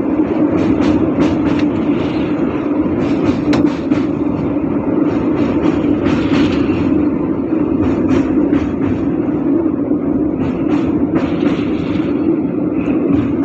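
Train running over a railway bridge: a steady, loud rumble with irregular clicks of the wheels over rail joints.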